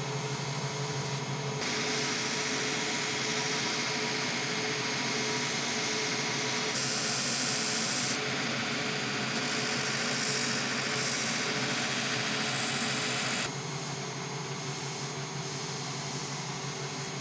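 Power tool working on material, a loud hiss that starts about a second and a half in and stops sharply near thirteen and a half seconds, over a steady machine hum.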